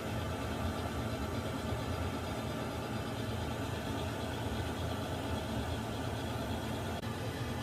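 Water heater running: a steady low hum with an even hiss above it, with a momentary drop about seven seconds in.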